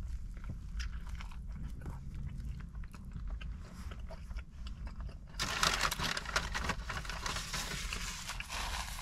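Close-up biting and chewing of a chicken sandwich, soft wet clicks over a steady low hum. About five and a half seconds in, a louder, dense rustling starts and runs on.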